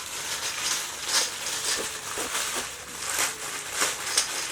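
Small plastic toy-train pieces being handled: irregular light clicks, taps and rustling.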